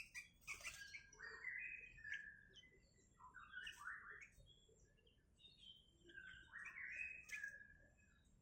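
Sooty-headed bulbul (kutilang) chirping in three short bursts of quick, bubbly notes, with two sharp clicks, one near the start and one near the end.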